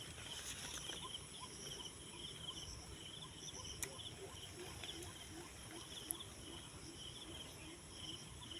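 Forest insects, crickets among them, chirping faintly: short chirps repeat evenly over a steady high hiss.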